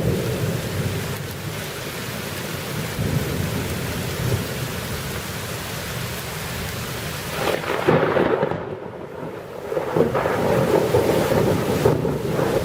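Thunder rumbling over steady rain, with a louder burst a little over halfway through.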